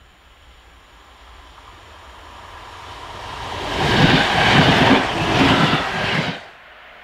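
Electric passenger train approaching and passing close by at speed: a rushing, rising sound of wheels on rail that swells to a loud, pulsing clatter as the cars go by, then cuts off abruptly near the end.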